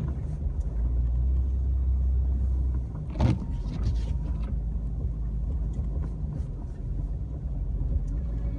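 Jeep Wrangler heard from inside the cabin, driving through snow: a steady low engine and road rumble, with a sharp knock about three seconds in and a few fainter clicks after it.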